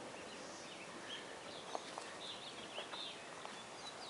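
Birds chirping and calling, a scatter of short high chirps one after another over a faint open-air background.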